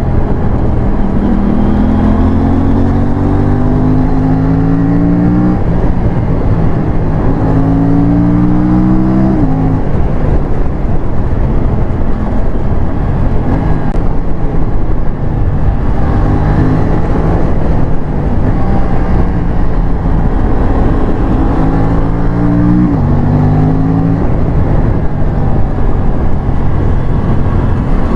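Aprilia RS 457 parallel-twin engine accelerating hard, its revs climbing and then dropping sharply at each upshift, a few times over, with an uneven, droning stretch in between. A steady wind rush runs under it all.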